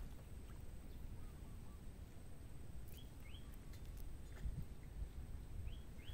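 Faint outdoor ambience: a steady low rumble with two pairs of short, rising bird chirps, the first pair about three seconds in and the second near the end, and a few faint clicks.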